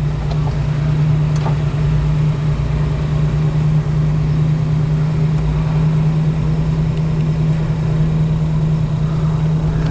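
Chevrolet 327 V8 with dual carburetors and dual exhaust idling steadily, heard from inside the car's cabin.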